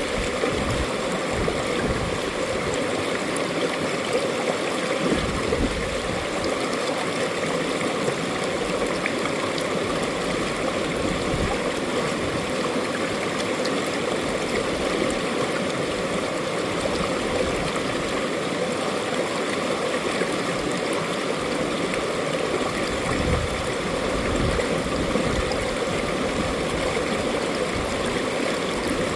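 Mountain valley stream, water rushing and gurgling over rocks in a steady, continuous flow.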